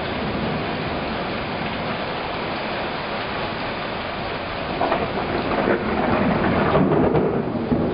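Heavy downpour rain, a steady hiss of a sudden summer cloudburst. About five seconds in it grows louder and rougher, with a deeper, uneven sound.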